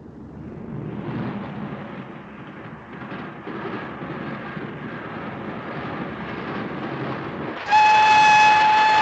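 Steam locomotive's running noise growing louder as the train approaches, then near the end its steam whistle sounding one loud, steady blast that carries on.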